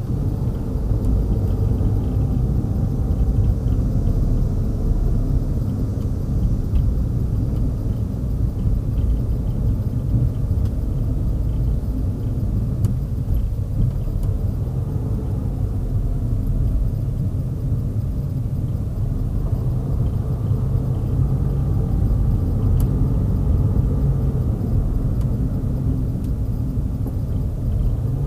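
Car driving along a road: a steady, low road-and-engine rumble, with faint tones that slowly rise and fall in pitch.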